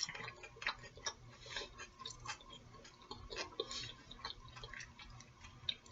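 Faint, irregular clicks and smacks of someone eating: chewing and mouth sounds, a few per second.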